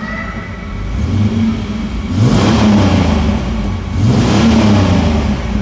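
Pontiac Fiero 2.8 V6 engine running with the throttle pressed, revving up twice, about two and four seconds in. The owner suspects a wrong air-fuel ratio in this engine.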